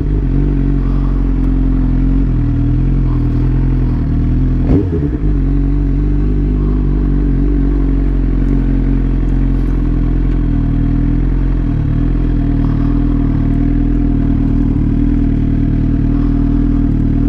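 Suzuki GSX-R750 inline-four running through a new M4 full exhaust, holding steady revs with a brief rev blip about five seconds in.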